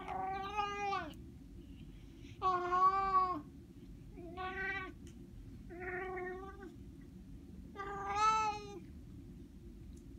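A domestic cat meowing: five long, drawn-out meows about two seconds apart, each falling in pitch at the end.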